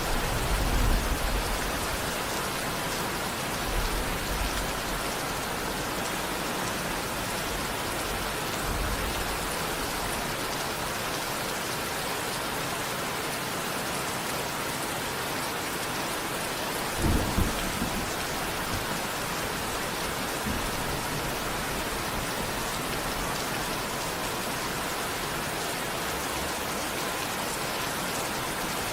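Steady rain falling, with low rumbles of distant thunder near the start and a short, louder thunder rumble a little over halfway through.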